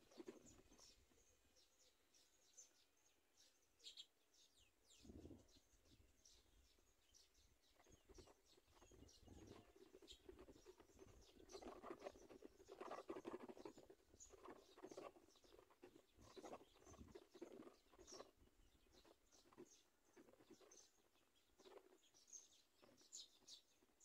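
Faint, rapid, high-pitched bird chirps and peeps throughout, with a few louder, lower noisy bursts around the middle.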